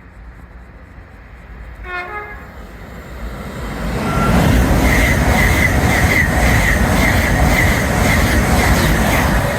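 A train sounds a short horn blast about two seconds in, then passes through the station at speed. A loud, steady rumble of wheels on rail builds from about four seconds in and stays through to the end.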